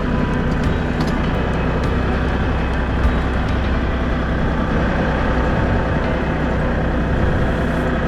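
Compact diesel tractor engine running steadily, with an even low hum that cuts off suddenly at the end.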